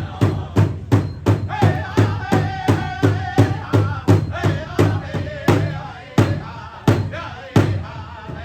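First Nations drum group performing: a big drum struck in a steady beat, about three strikes a second, with singers chanting over it. About six seconds in the singing stops and the beat slows to about one and a half strikes a second.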